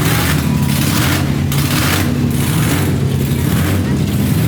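Loud, steady drone of car engines running, with a rushing hiss that swells and fades about once a second.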